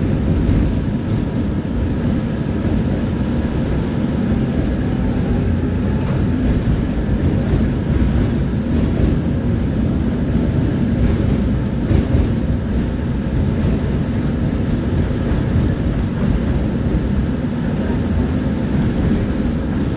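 Tram in motion: a steady low rumble of wheels on rails, with a few faint clicks.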